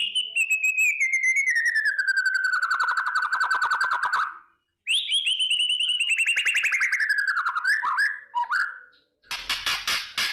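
White-rumped shama (murai batu) giving its kretekan: rapid trills of clicks that slide down in pitch over about four seconds, heard twice. A few short harsh rasping bursts follow near the end.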